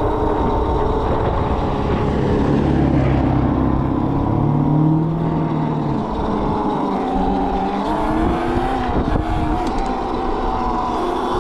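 Electric mini bike's motor whining as it rides, its pitch rising and falling with speed, over a low rumble of wind and road noise.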